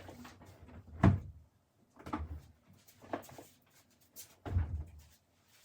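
Rummaging through kitchen storage: a series of knocks and clunks of containers and a cupboard door, the loudest about a second in.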